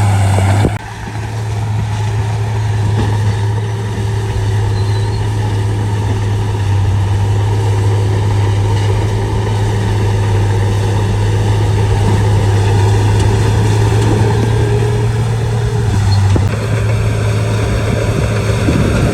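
Shantui D95 bulldozer's diesel engine running with a steady low drone, dipping briefly about a second in and changing tone near the end.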